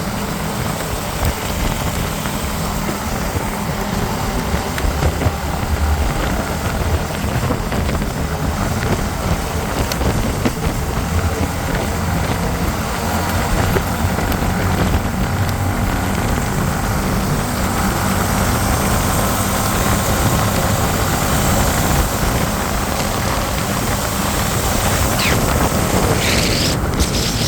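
Motorcycle on the move, heard through a helmet camera: steady engine drone with wind rushing over the microphone. A brief high whine glides up and down near the end.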